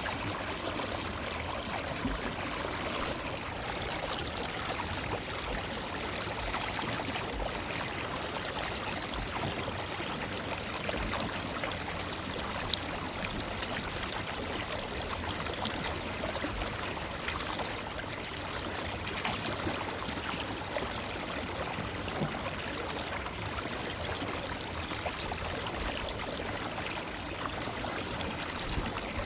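Forest river flowing steadily, its water rushing and trickling over stones. A brief click comes about midway.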